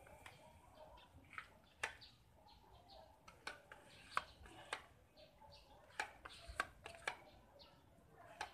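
Faint small birds chirping in short calls, with scattered sharp clicks throughout.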